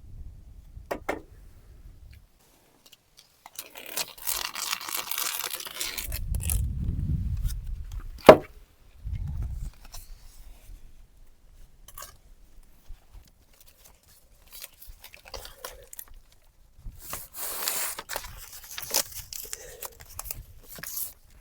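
Building work by hand: rustling, scraping and tearing of material in two stretches, a low rumble of wind on the microphone in between, and one sharp knock about eight seconds in.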